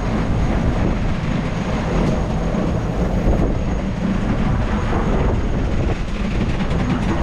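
A sailboat under way: a loud, steady low rumble with a rushing noise over it.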